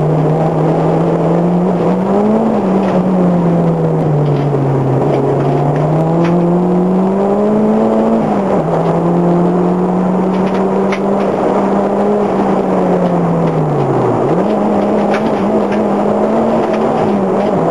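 Toyota Glanza's engine heard from inside the cabin as the car is driven through bends, its note rising and falling as the throttle is opened and lifted. The pitch drops sharply about halfway through, and later dips low before jumping straight back up; a few faint clicks sound along the way.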